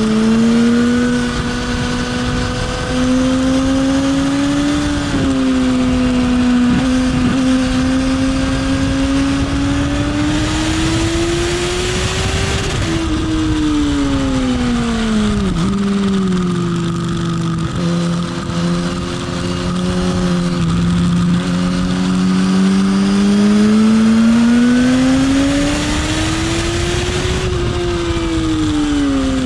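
Motorcycle engine heard from on the bike during track riding, its pitch climbing slowly as it accelerates and dropping sharply several times as it slows and shifts for corners. A rush of wind swells for a couple of seconds about a third of the way in.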